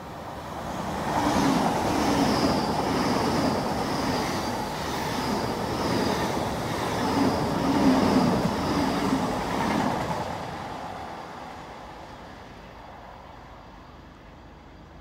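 Great Western Railway Class 802 intercity express train passing through at speed. It builds to a loud rush about a second in, with a regular beat from the wheels, and fades away from about ten seconds.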